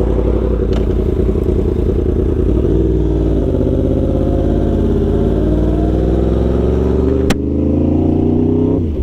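Yamaha R1 sportbike's inline-four engine running under way, heard from the rider's position. Its note changes about three seconds in, then rises steadily in pitch for several seconds as the bike accelerates and drops just at the end. There is one sharp click about seven seconds in.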